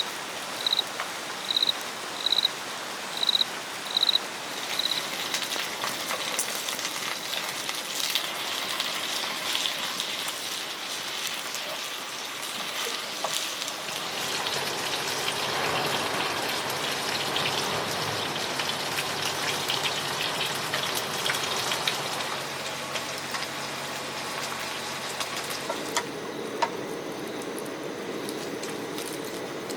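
Steady rain falling on a tent. A run of short, high, evenly spaced beeps sounds during the first five seconds.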